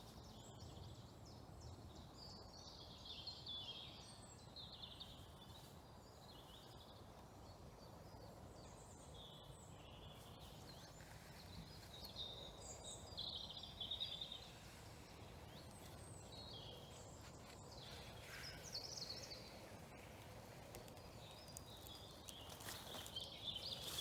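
Faint birdsong, short chirps and phrases coming and going, over a low steady background rumble.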